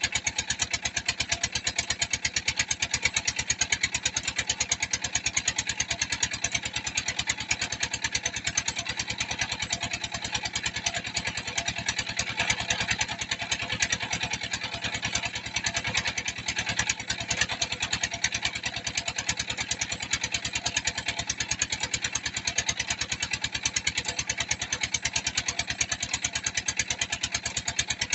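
Engine of a red-brick press machine running steadily under load, with a rapid, even beat.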